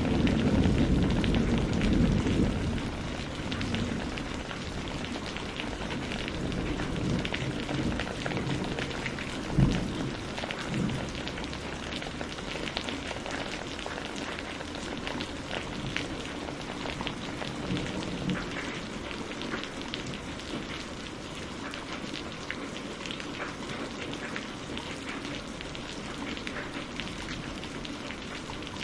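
Steady rain falling and pattering on surfaces. A low thunder rumble dies away over the first few seconds, and there is a single sharp thump about ten seconds in.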